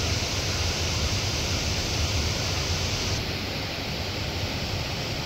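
Laksapana waterfall rushing: a steady, dense roar of falling water that drops slightly in level about three seconds in.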